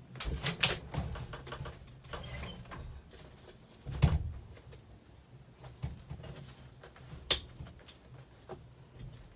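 Scattered knocks, clicks and rustling as things are handled and moved about inside a van, with a louder thump about four seconds in.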